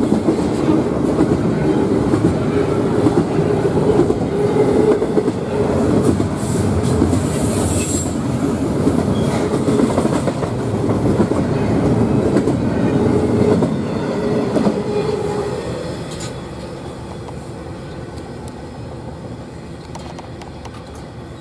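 Double-stack intermodal container train rolling past, steel wheels running on the rails with a brief high wheel squeal about seven seconds in. The sound drops off about two-thirds of the way in as the last car goes by and the train recedes.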